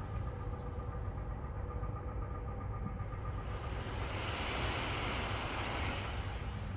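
Ocean waves washing in, with a rush of hiss swelling about four seconds in, over a steady low rumble and a faint steady hum.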